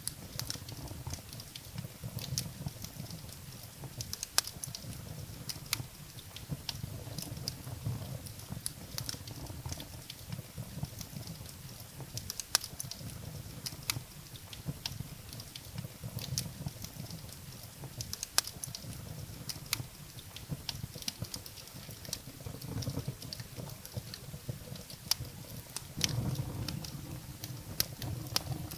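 Wood fire burning in a fireplace, crackling with frequent irregular sharp pops and snaps over a low steady rumble of the flames.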